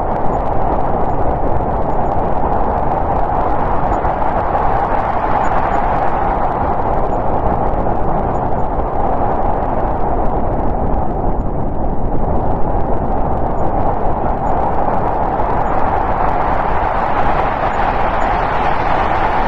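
Snowstorm wind blowing steadily, an even rushing noise that swells a little near the end.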